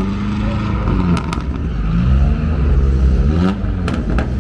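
Motor vehicle engines running and revving, the engine note rising and falling over a heavy low rumble, with a few sharp clicks about a second in and again near the end.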